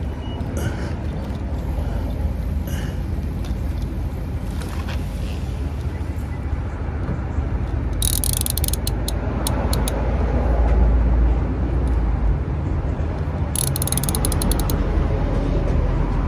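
A socket ratchet clicking in two quick runs, about eight seconds in and again near the end, as a motorcycle's oil drain plug is run back in, not yet tight. A steady low rumble lies underneath.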